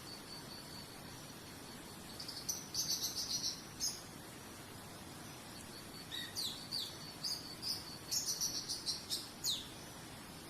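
A songbird singing in two bursts of rapid high chirps and quick falling whistles, over a steady high insect trill heard plainly in the first couple of seconds and a faint steady outdoor hiss.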